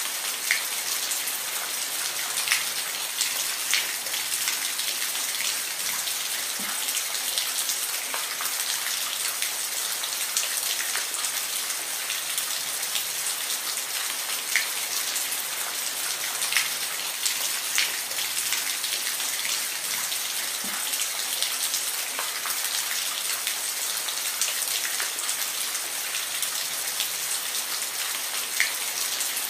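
Steady rain, a continuous hiss with many individual drops ticking sharply on a hard surface here and there.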